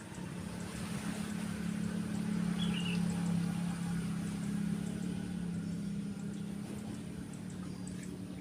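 A motor vehicle passing by, its engine drone swelling over the first few seconds and then fading, over a steady wash of waves. A bird chirps once about three seconds in.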